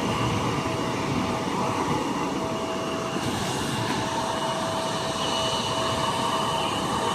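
Jet aircraft engines idling: a steady rushing noise with two held whining tones that do not change.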